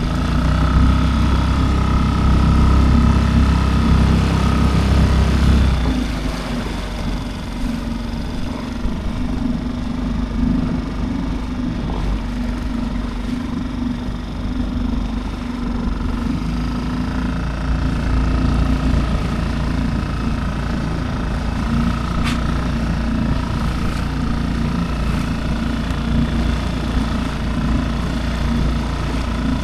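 Small Tohatsu outboard motor running steadily, louder for the first six seconds and then easing to a lower, even hum.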